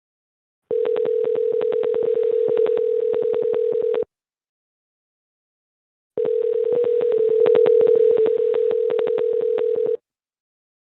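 Telephone line tone heard over the call: a steady buzzy tone with a fast even flutter, sounding twice for about three seconds each with a two-second gap. This is the ringing tone of an outgoing call waiting to be answered.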